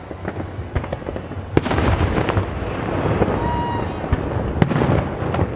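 Fireworks going off: a series of sharp bangs, the loudest about one and a half seconds in and again near the end, with dense crackling between them.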